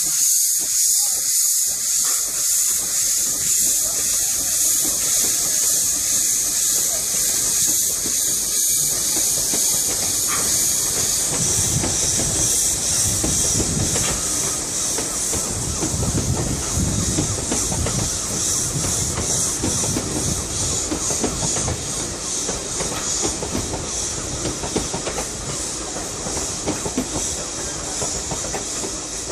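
Narrow-gauge steam locomotive pulling away: a loud, steady hiss of steam with rapid rhythmic beats, joined about eleven seconds in by the low rumble of the train rolling past, slowly fading toward the end.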